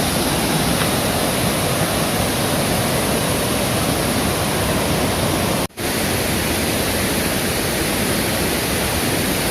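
Waterfall rushing: a loud, steady roar of falling water. It breaks off for a split second a little before six seconds in.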